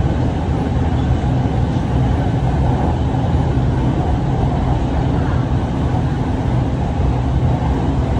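Steady running noise inside an electric train in motion on an elevated track: an even, low rumble with a hiss over it.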